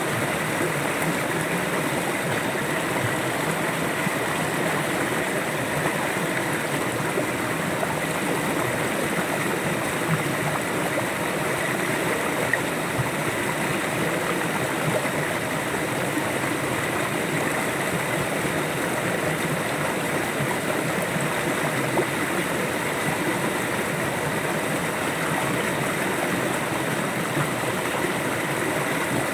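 River water flowing steadily, an even rushing and gurgling that holds constant without a break.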